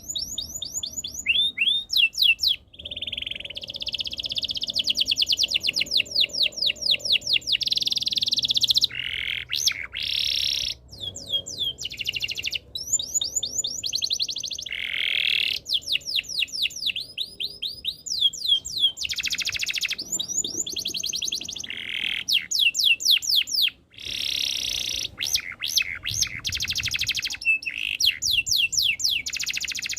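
Domestic canary singing a long, continuous song of fast trills: runs of rapidly repeated sweeping notes alternating with buzzy rolls, broken by brief pauses about a tenth and three-quarters of the way through.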